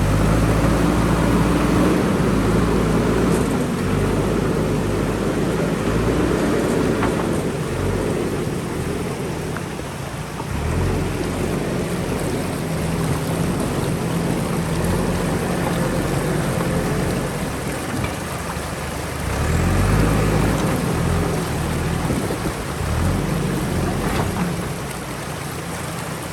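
Diesel engine of a JCB backhoe loader working, its note rising and falling as the machine digs and levels, over a steady rushing hiss.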